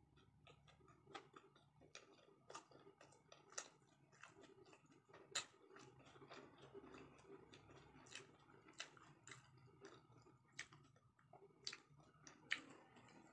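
Faint close-miked chewing of sushi with the lips closed: soft wet mouth clicks and smacks at an irregular pace, with a few sharper clicks standing out.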